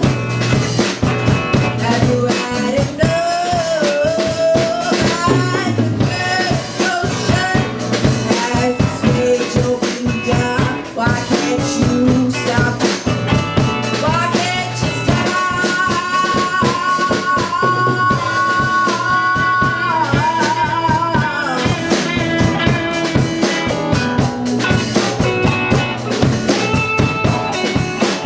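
Rock band playing an instrumental section of a song: drum kit and bass under a lead melody that bends between notes and holds long notes with vibrato, the longest about halfway through.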